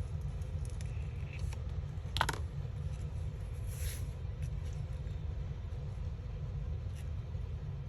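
Paper and card being handled at a craft table: a few light ticks, a sharp crackle about two seconds in and a brief rustle near four seconds, over a steady low hum.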